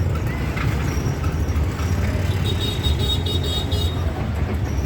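Auto-rickshaw engine and road rumble heard from inside the moving auto, with traffic around. About two and a half seconds in, a high-pitched vehicle horn beeps in a quick run of about six short pulses.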